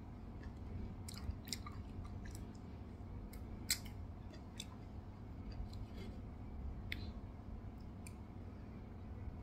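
A person chewing food close to the microphone, with scattered short wet mouth clicks and smacks over a low steady hum; the sharpest click comes a little under four seconds in.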